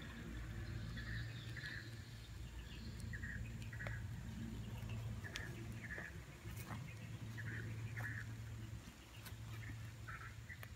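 Short bird chirps repeating at irregular intervals over a low steady rumble, with a few faint clicks.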